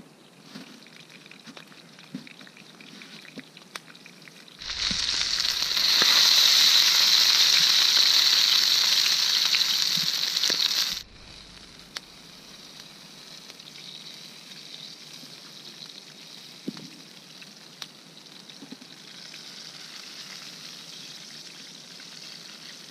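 Chicken breast sizzling as it fries over a campfire, a steady hiss. For about six seconds in the first half the sizzling is much louder, starting and stopping abruptly.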